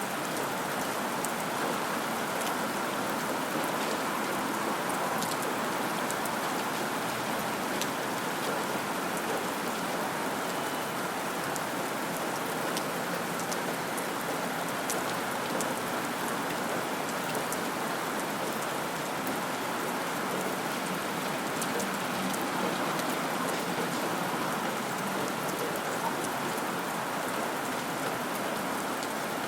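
Steady rain falling on a surface, an even hiss with faint scattered drop ticks throughout.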